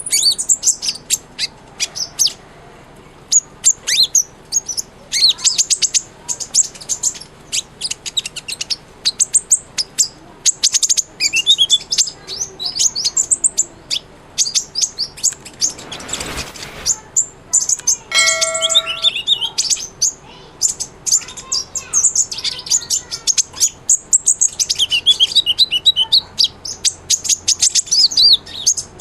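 Sunbird (kolibri ninja) singing: rapid, high twittering chirps and trills in quick runs with short pauses between phrases.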